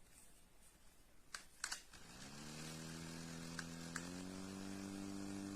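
JISULIFE handheld mini fan: a few button clicks, then its small motor spins up into a steady whirring hum. About four seconds in, another click steps it up to a slightly higher speed.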